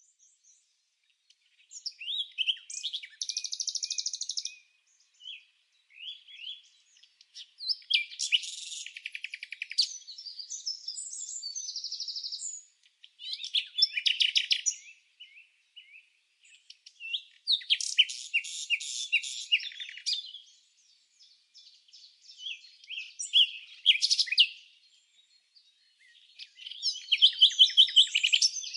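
Bird song: phrases of rapid chirps, warbles and trills, each a couple of seconds long, repeating with short silent gaps between and no background noise underneath.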